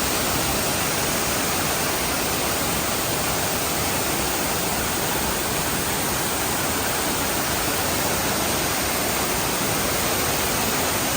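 Steady rush of water from High Falls, a large waterfall, an even wash of noise that does not change.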